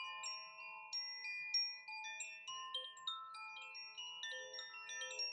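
Wind chimes ringing: many clear metallic tones at different pitches, struck at irregular moments and overlapping as they sustain and fade.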